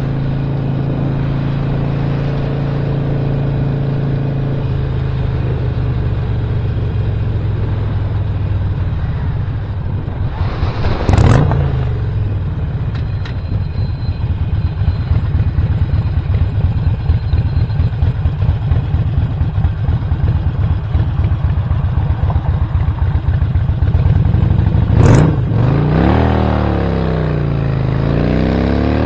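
2017 Harley-Davidson Sportster Roadster's Stage 1 air-cooled 1200 V-twin running under way, first at a steady note and then with a heavy pulsing beat. Two sharp knocks come, about 11 s and 25 s in. Near the end the engine pitch rises and falls repeatedly.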